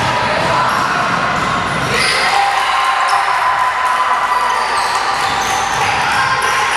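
Basketball game in a gym: a ball being dribbled on the court over a steady din of background chatter, all in hall echo.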